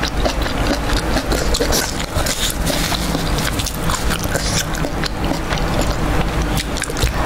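Close-miked chewing of spicy fried chicken: a dense run of wet, crackling mouth and crunching clicks. Wooden chopsticks click and scrape as the next sauce-coated piece is lifted from the board.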